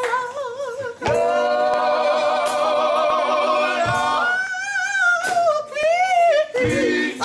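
Gospel singing: a lead voice holds long, wavering notes, sliding between pitches with only brief breaks for breath.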